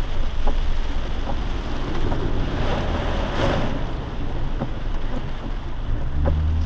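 A lifted Jeep ploughing through deep standing floodwater on the road: a continuous rush of water spraying from the tyres and against the body, swelling about halfway through. The engine's low hum comes up strongly near the end.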